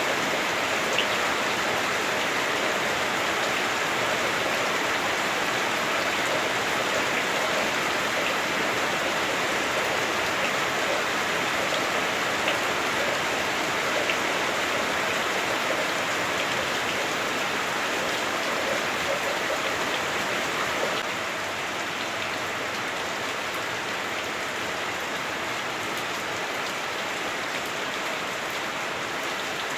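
Heavy rain falling on a house roof, heard from inside: a dense, steady hiss of drops. It drops a little in loudness about two-thirds of the way through.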